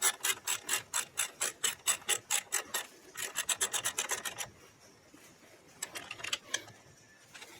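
Quick back-and-forth rasping strokes, about five a second, that stop about four and a half seconds in, with a short burst of a few more strokes about a second and a half later.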